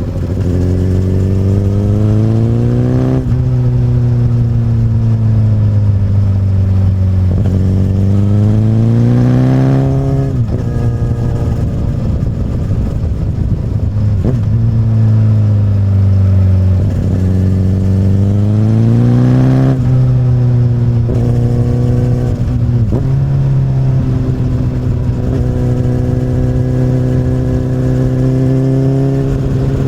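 Inline-four engine of a 2008 Honda CBR1000RR through an Akrapovic carbon slip-on exhaust, heard while riding. The pitch rises under acceleration and drops back four times, then holds steady at a cruise for the last several seconds.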